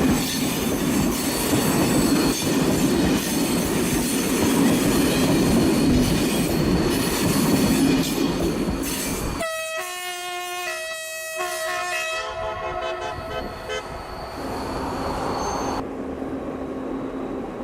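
BB 67000-class diesel locomotives running with a train, a loud steady rumble of engines and wheels on rail. About nine and a half seconds in, the sound cuts to a locomotive horn blast of a couple of seconds with a step in pitch, which rings away. A fainter steady engine drone follows.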